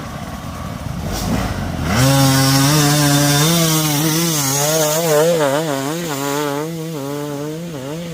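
Enduro motorcycle engine running. About two seconds in it jumps to a loud, high-revving tone whose pitch wobbles up and down with the throttle.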